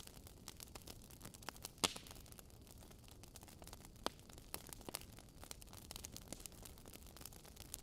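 Logs burning in a fireplace, crackling: irregular sharp pops and snaps over a soft hiss, the loudest pop about two seconds in.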